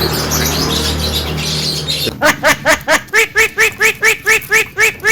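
Javan myna calling: a harsh, noisy chatter, then from about two seconds in a fast run of short, repeated pitched notes, about five a second.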